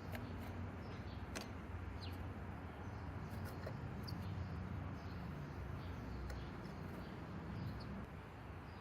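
Faint, short chirps of small birds scattered over a steady low background rumble, with a couple of sharp ticks near the start.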